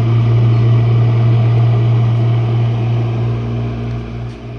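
Jenn-Air dishwasher running, a loud steady low hum from its wash motor, heard close at the bottom of the machine. The hum eases slightly near the end.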